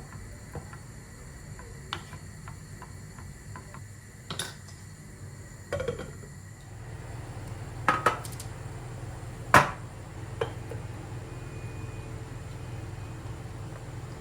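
Kitchenware being handled: dishes, utensils and glass clinking and knocking in a handful of separate strikes, the loudest about two-thirds of the way in. A low steady hum comes in about halfway.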